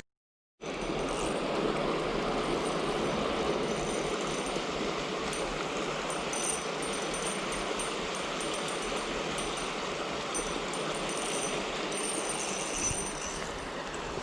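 Steady rushing of a small river's flowing water, with faint high chirps over it.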